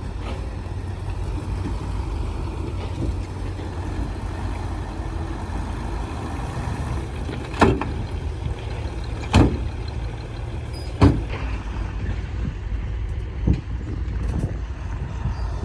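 Heavy earthmoving machinery's diesel engine running steadily with a low rumble, with four sharp knocks or clanks in the second half, each about one and a half to two seconds apart.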